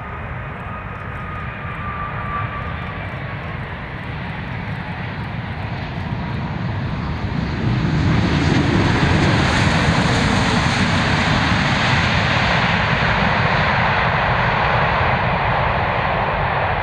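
Boeing 777 twin jet engines on a landing approach, a steady jet noise that builds and is loudest from about halfway through. A faint whine falls in pitch over the first couple of seconds.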